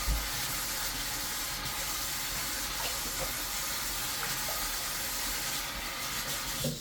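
Tap water running steadily into a kitchen sink during washing up. It cuts off suddenly at the end.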